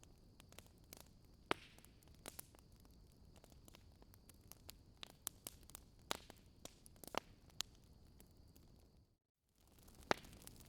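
Wood fire crackling: scattered sharp pops and snaps over a faint hiss, with a few louder pops. The sound cuts out for a moment about nine seconds in, then the crackling resumes.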